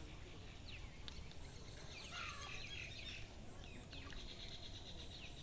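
Small birds chirping: several short falling chirps, a brief burst of calls, and a fast trill near the end, over a low background rumble.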